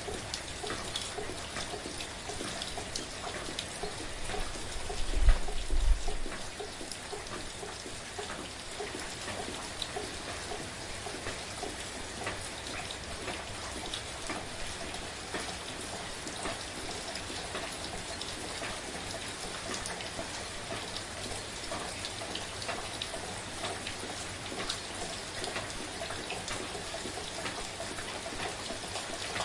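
Soft, steady rain, with many individual drops ticking throughout. About five seconds in comes a brief low rumble in two pulses, louder than the rain.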